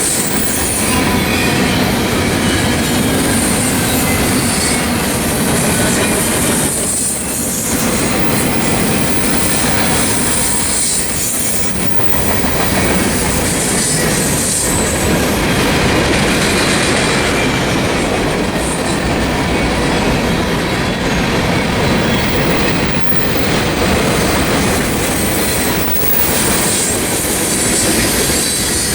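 Freight train cars rolling past at close range: a steady loud rumble of wheels on rail with a high whine above it that fades in the middle of the passage and returns near the end.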